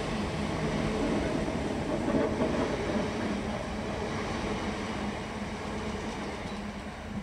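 South Western Railway suburban electric multiple-unit train running along the platform and pulling away, a steady rumble of wheels and motors with a low hum that fades near the end as it recedes.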